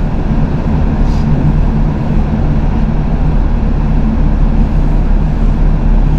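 Tow truck's engine and road noise heard inside the cab while driving, a steady low hum.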